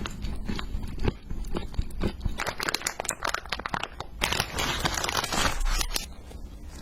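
Close-up crunching of crisp food being eaten: a run of sharp crackles and crunches, densest and loudest from about two and a half to six seconds in, then quieter.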